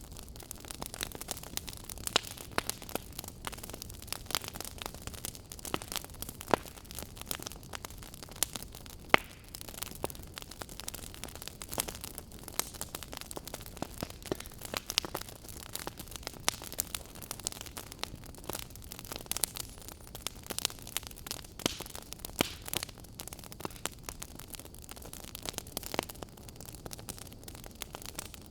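Wood fire burning in a fireplace: a steady low hiss with frequent irregular crackles and pops, a few sharper ones standing out.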